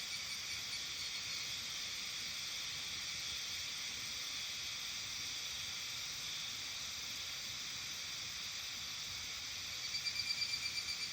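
Dense evening insect chorus, a steady high chirring, with a pulsing trill that grows louder near the end.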